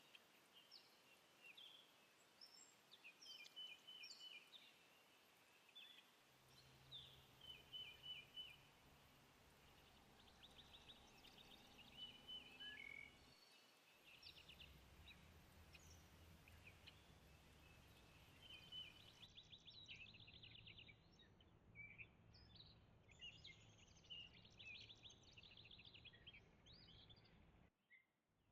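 Faint songbird calls: many short high chirps and several rapid trills over a low, steady background rumble, with the background changing abruptly a few times.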